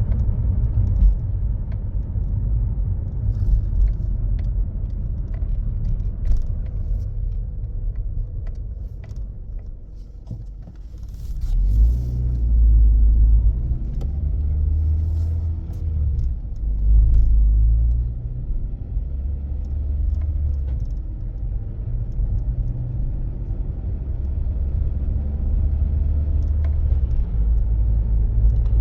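Toyota Corolla Verso driving with its robotised manual gearbox changing up through the gears, a steady low rumble that dips around ten seconds in and then swells again twice. The run is to reproduce a knock on engaging third gear, strong in third and weaker in fourth, which the mechanic puts down to a fault inside the gearbox: a gear or its synchroniser.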